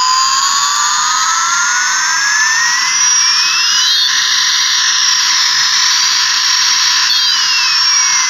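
Toy jet airliner's electronic jet-engine sound effect playing loud from its small speaker: a steady hiss with a whine that rises for about four seconds, then falls again.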